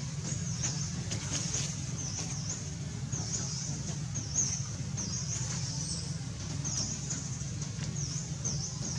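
A small bird chirping over and over: short high chirps, each dipping and rising again, about one or two a second, over a steady low hum.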